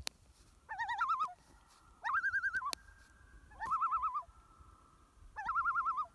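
Common loon giving its tremolo call: four quavering calls, each about half a second long, with a faint steady tone holding between them.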